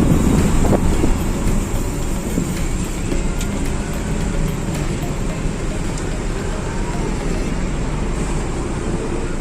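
Steady road-traffic noise of vehicles on a rain-wet road, loudest in the first second and then even.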